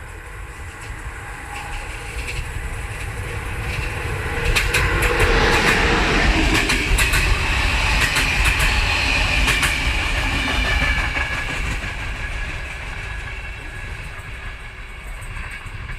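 A train passing close by: it builds over the first few seconds, peaks with a run of clicks from the wheels over rail joints around five to ten seconds in, then fades as it goes away.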